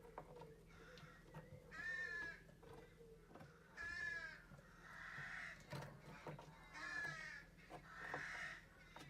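Barn owl calling: five short, harsh calls about a second or two apart. Some are rasping and pitched, others breathier and hiss-like.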